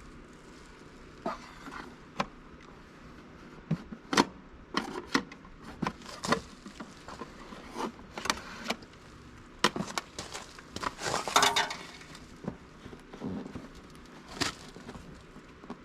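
Irregular clicks, taps and light rattles of a piece of wire being worked and fished through a hole in the tractor's body, with a longer scraping stretch about eleven seconds in.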